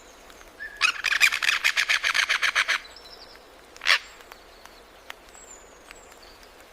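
Forest birds calling: a rapid rattling trill of about ten notes a second lasting about two seconds, then a single short sharp call, with faint thin high chirps around it.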